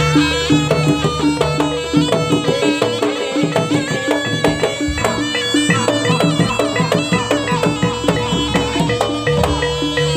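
Slompret, a Javanese shawm, playing a melody over jaranan music, with a short repeating beat about four times a second and a steady held note underneath.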